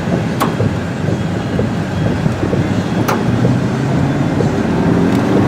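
Road and engine noise inside a moving car's cabin, with two sharp clicks, and the engine note growing stronger in the last second or so.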